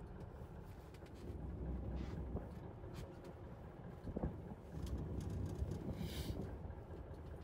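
Low steady rumble of a fishing boat's engine, mixed with wind, swelling twice, with a few faint clicks and knocks on deck.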